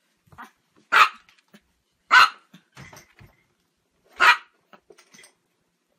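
A Chihuahua barking: three loud single barks, spaced one to two seconds apart.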